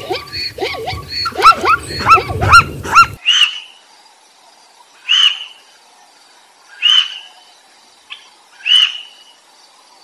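Zebras calling in a rapid run of loud, arching yips for about three seconds. Then, after an abrupt cut, four short high calls come about two seconds apart.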